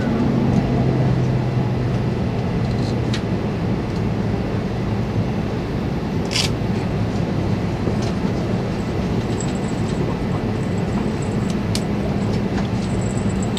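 Running noise inside the cabin of an E2-series Shinkansen train as it passes into a station platform: a steady rumble with a low hum, and a few short clicks.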